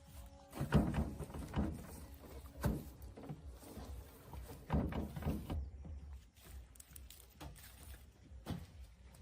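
Irregular knocks and thuds over a low rumble, loudest about a second in and again near the middle.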